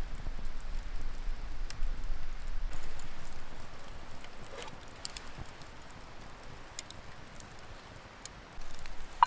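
Campfire crackling, with scattered sharp pops over a steady hiss; it grows quieter after about three seconds.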